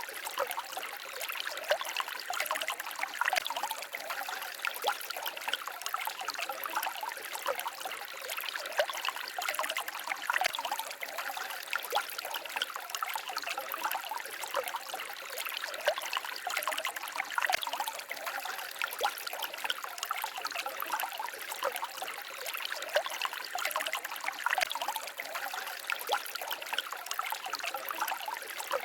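Small forest stream babbling and trickling over stones, a steady stream of small splashes and gurgles.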